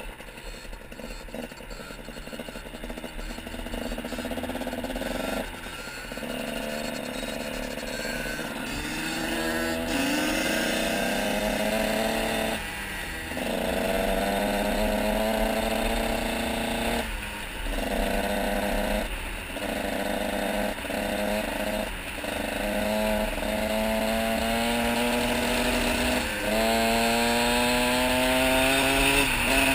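KTM SX 85 two-stroke single-cylinder dirt bike engine revving hard under acceleration, heard from the rider's helmet. Its pitch climbs for several seconds, breaks off and drops back, about half a dozen times, getting louder as it goes.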